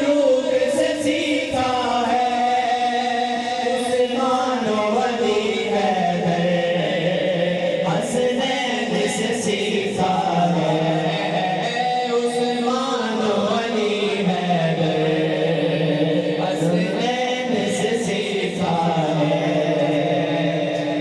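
A group of male voices chanting in unison in long, drawn-out sung phrases, the notes held and sliding slowly in pitch.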